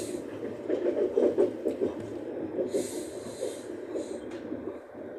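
Running noise inside a moving electric commuter train carriage: a steady, uneven rumble of the wheels on the rails, with a short burst of hiss about three seconds in.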